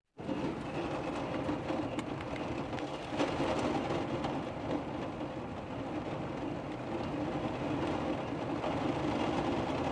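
A steady rain-like hiss and patter with scattered faint ticks, starting abruptly just after the start.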